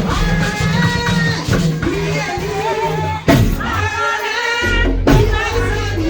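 Church praise music: singing over a band with drums and bass guitar.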